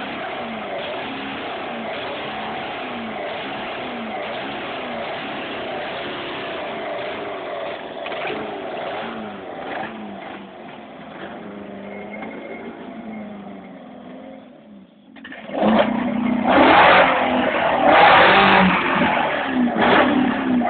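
Peugeot 106 XS four-cylinder TU petrol engine on four Weber carburettors, running with its revs rising and falling. About three-quarters of the way in it dips briefly and is then revved hard and loud several times. The big noise comes from the engine and its carburettor intakes, not from the exhaust, which is stock.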